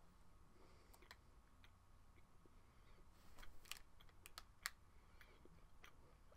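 Faint mouth sounds of chewing a piece of oat bar: near silence broken by a scatter of small clicks, more of them about three to five seconds in.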